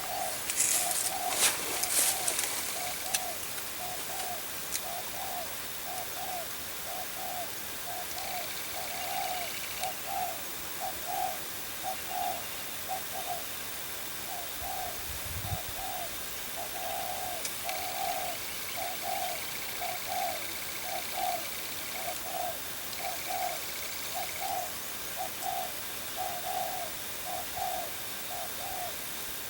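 Spotted dove cooing over and over in a steady rhythmic series of short, low coos, the call used to lure wild doves to a trap. A brief low thump about halfway through.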